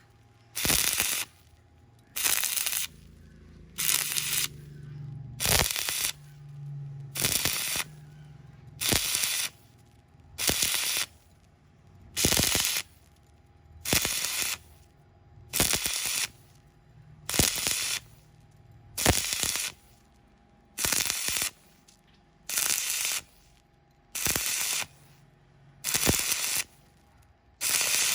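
A stick-welding arc crackling in short bursts of about half a second, about one every second and a half to two seconds: the arc is struck and broken again and again in a steady rhythm. A faint low hum runs between the bursts.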